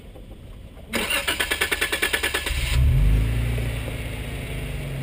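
A 4x4's engine being started: the starter cranks in rapid, even pulses for under two seconds, then the engine catches with a brief rev and settles into a steady low idle.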